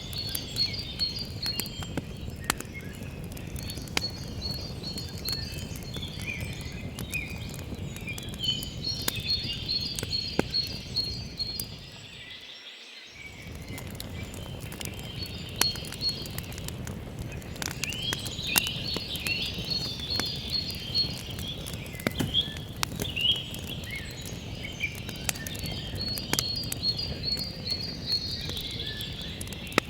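Campfire crackling and popping over a steady low rush, with birds chirping and trilling throughout. The low rush briefly drops away about twelve seconds in.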